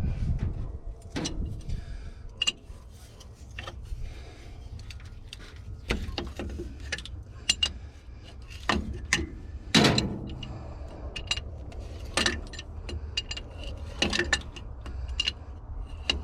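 Wrenches clinking and knocking on metal as hydraulic hose fittings on an excavator are worked loose: irregular sharp clicks and knocks, the loudest about ten seconds in, over a steady low hum.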